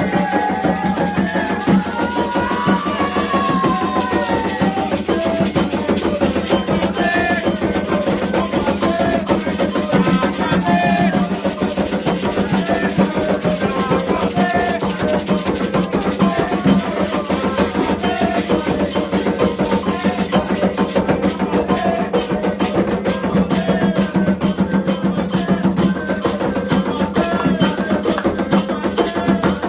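Afro-Brazilian religious drumming: atabaque hand drums played in a fast, dense, unbroken rhythm with a sharp wood-block-like bell pattern, and voices singing over it, clearest in the first few seconds.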